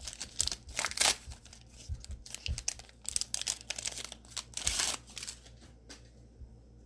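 Plastic trading card pack wrapper being crinkled and torn open, a run of uneven crackling rustles that dies down about five seconds in.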